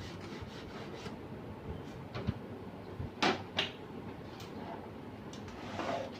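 Handling noises from a Canon LBP6000 laser printer being opened up for repair: a click, then two sharp knocks close together just past three seconds in, and a short scrape near the end, over a faint steady background noise.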